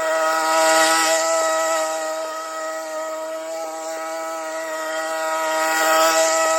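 Hedge trimmer motor running at a steady high pitch, with two louder, hissier swells, about a second in and near the end.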